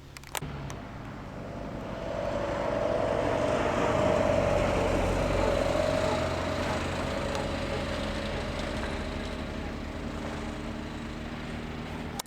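A motor vehicle passing, its sound swelling over the first few seconds and then slowly fading, with a low steady hum and a faint whine at its loudest.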